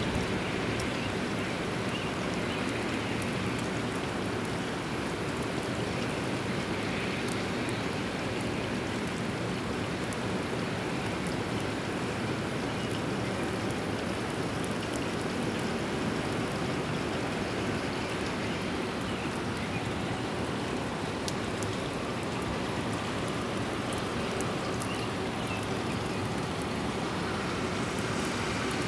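Steady rain falling in a thunderstorm, an even hiss with scattered faint ticks of drops.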